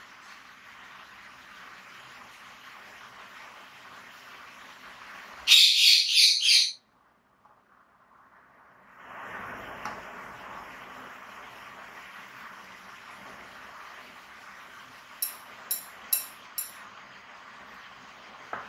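A bird chirping: a quick run of about five loud, wavering chirps about five seconds in, then four short high chirps near the end, over a steady faint hiss.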